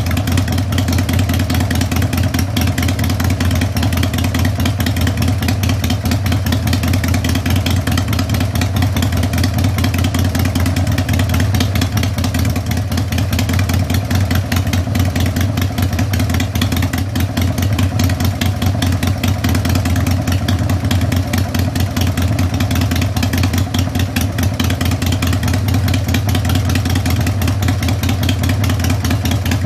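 Harley-Davidson Sportster V-twin, newly bored up from 883 to 1200 cc with Wiseco pistons, idling steadily through its exhaust.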